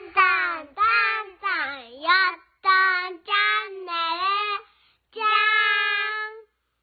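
A high, child-like voice singing a short phrase of several sliding notes, ending on one long held note.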